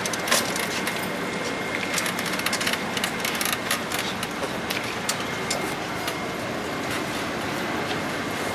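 Steady outdoor background noise with many scattered small clicks and knocks and a faint steady high tone.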